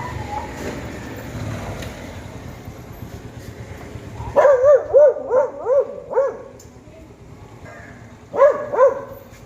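A dog barking: a quick run of about six barks, then two more near the end, over steady background noise.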